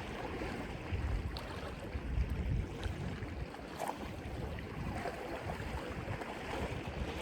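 Wind buffeting a phone's microphone, giving an uneven low rumble over the steady wash of surf on the rocks.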